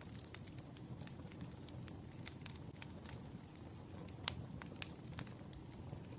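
Wood fire crackling: irregular sharp pops and snaps over a steady low rumble of the burning logs, with one louder pop about four seconds in.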